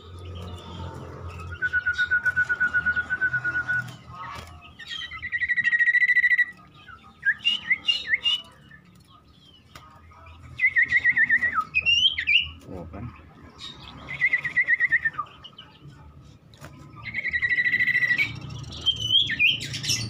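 Caged common iora (cipoh) singing: five rapid trills, each one to two seconds long, the first lower-pitched than the rest, with short rising whistled notes between them. These trills are the 'tembakan' (shots) that cipoh keepers prize.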